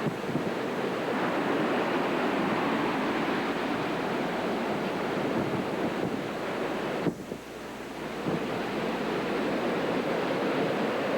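Hurricane wind buffeting the camcorder microphone over heavy surf: a steady rushing noise that drops away suddenly a little past the middle and then builds back.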